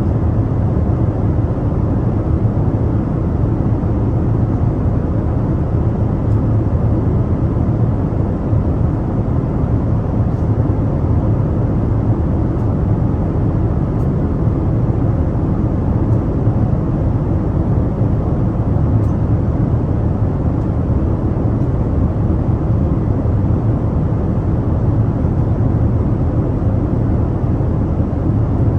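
Steady drone of an airliner cabin in flight: engine and airflow noise, deep and even, with no changes.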